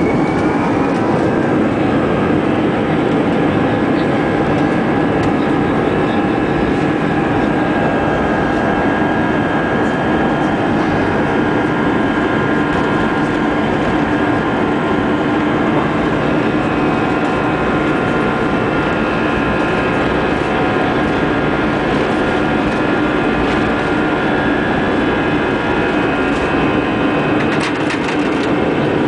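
Airbus A320 jet engines at take-off thrust, heard inside the cabin. A whine rises in pitch during the first second as the engines spool up, then settles into loud, steady engine noise with high whining tones.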